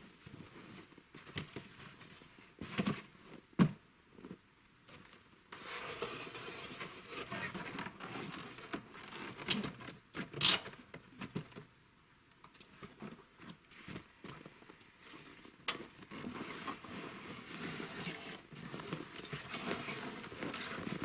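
Scattered knocks, clicks and scrapes with rustling and crinkling, the sound of things being handled, with a few sharper knocks around a fifth of the way in and again about halfway through.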